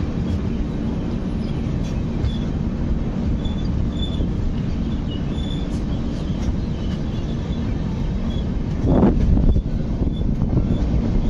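Passenger train with LHB coaches pulling out of a station, a steady rumble of wheels on the rails heard from the open coach doorway. A brief louder whoosh comes about nine seconds in.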